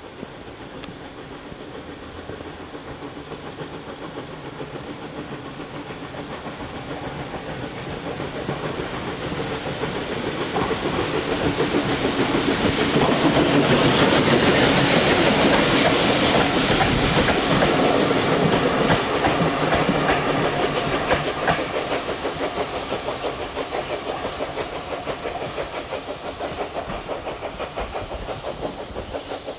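Steam train passing by, growing steadily louder to a peak about halfway through and then fading away.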